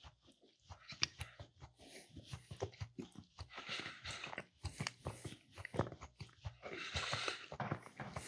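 Close-miked chewing of a mouthful of Funny Bones, a soft chocolate snack cake with peanut butter filling: irregular wet mouth clicks and smacks.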